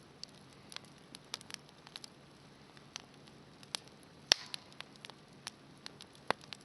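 Campfire wood crackling in a homemade fire pit: scattered sharp snaps and pops at irregular intervals, the loudest about four seconds in.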